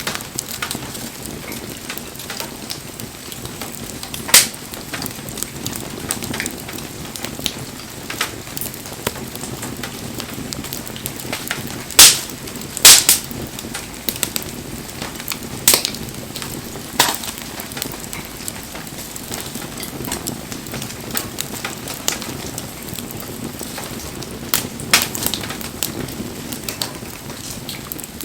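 Wood bonfire crackling steadily, with scattered sharp pops from the burning logs; the two loudest pops come close together a little before halfway.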